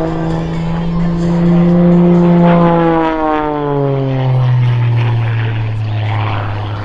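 Extra 300 aerobatic plane's Lycoming piston engine and propeller running under power, a steady drone whose pitch drops about halfway through as the plane goes by.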